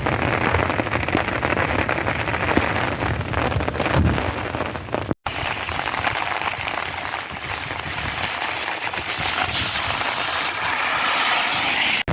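Heavy rain pouring down in a steady hiss. It breaks off for an instant about five seconds in, then comes back thinner and higher-pitched, with less low rumble.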